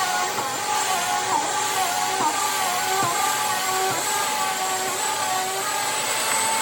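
Bissell Power Force Compact bagless upright vacuum cleaner running on a carpeted rug: a loud, steady motor whine and airflow, its pitch wavering slightly as it is pushed back and forth.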